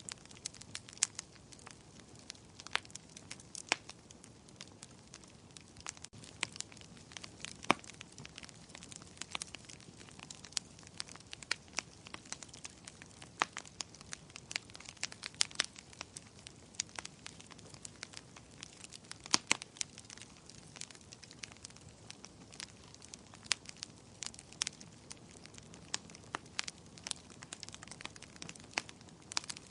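Wood fire burning in a fireplace, crackling: irregular sharp pops and snaps, several a second with a few louder ones, over a soft steady hiss.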